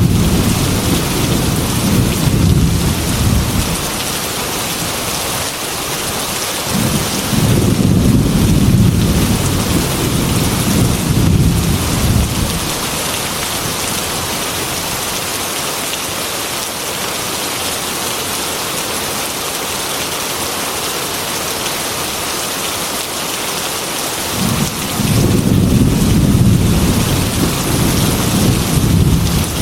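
Heavy rain falling in a steady hiss, with three long rolls of thunder: one rumbling at the start and fading out about four seconds in, another from about seven to twelve seconds, and a third starting near the end.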